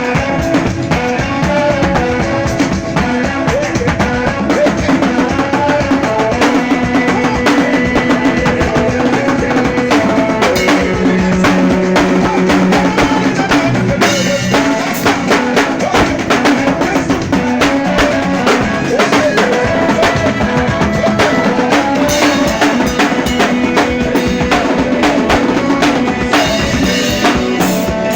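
Drum kit played with dense, fast strokes over accompanying band music, the recording's sound rough and poor.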